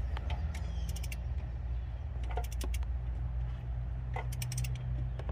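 A steady low mechanical hum, with scattered light clicks and jingling of handled gear.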